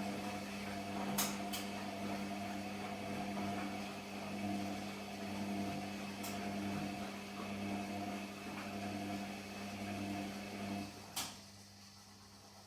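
Gorenje PS 1008 BM washing machine running with a steady electric hum and a few light clicks, cutting off about eleven seconds in with a click.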